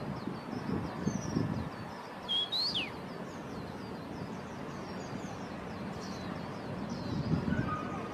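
Songbirds chirping: a steady stream of short, high chirps, with one louder whistled note about two and a half seconds in that rises and then drops steeply. A low rumble of background noise runs underneath.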